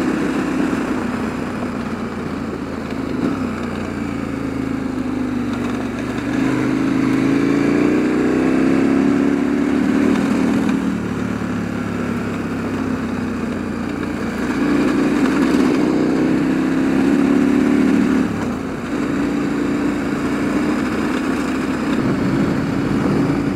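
KTM 1290 Adventure's V-twin engine running under way, its pitch rising and falling several times with throttle and gear changes, over a steady rush of wind and road noise. The engine eases off briefly about three-quarters of the way through.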